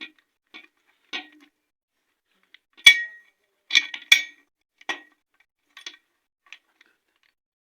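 Steel gearbox gears and shafts of a Honda Shine engine clinking against each other and the crankcase as the input and output shafts are set into place: a series of short metal clinks, the loudest about three seconds in, then two close together a second later.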